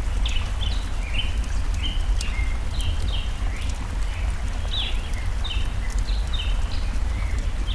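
Birds chirping in quick short notes again and again over the steady low rush of a forest stream, with scattered sharp crackles from a campfire.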